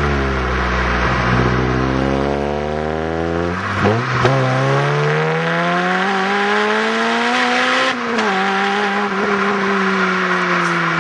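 Honda Civic Type R with an HKS Hi Power aftermarket exhaust accelerating: the engine note climbs, drops at a gear change about four seconds in, climbs again, then drops at a second shift near eight seconds and eases slowly down.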